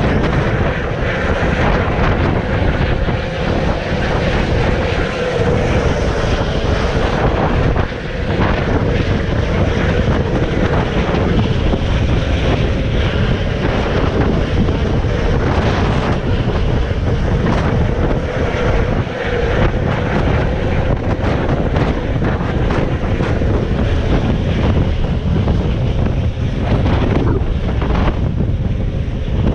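Helicopter in flight: loud, steady rotor and engine noise with a constant hum running through it, and wind buffeting the microphone.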